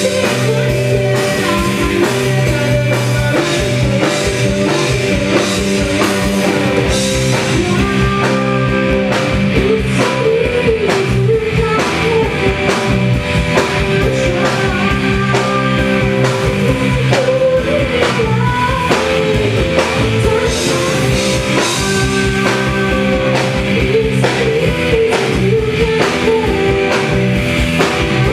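Piano rock trio playing a song live, with keyboard, bass guitar and drum kit under a singing voice at a steady, loud level.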